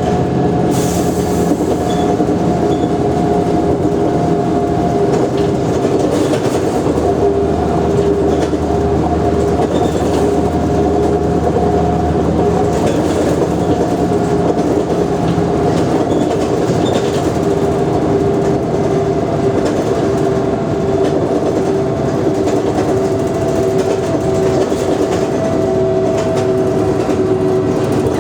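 Mercedes-Benz O345G articulated bus running, a steady engine and drivetrain drone with two steady whining tones whose pitch drifts slightly down.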